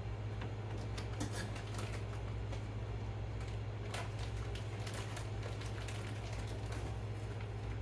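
Faint small clicks and light rustling of hands picking apart cooked chicken meat, scattered unevenly, over a steady low hum.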